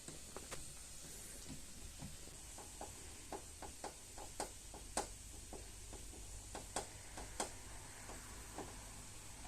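Light, irregular taps and clicks, roughly two a second, the loudest of them around the middle.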